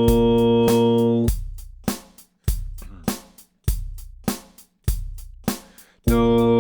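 Electronic keyboard practice track: a held chord on C over a steady drum beat, one hit about every 0.6 seconds. About a second in the held notes stop and only the drum hits go on, each dying away. The held chord comes back near the end.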